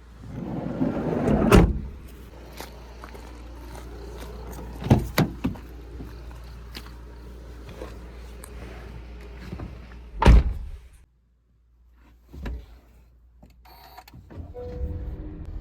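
Doors of a Honda N-VAN being slid and shut: a rolling slide that ends in a thump about one and a half seconds in, a few more knocks around five seconds, and a heavy slam about ten seconds in, after which the sound drops away almost completely.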